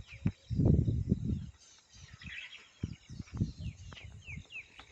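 Wild birds calling with short falling chirps, a run of them near the end, over bursts of low rumble that are loudest about a second in.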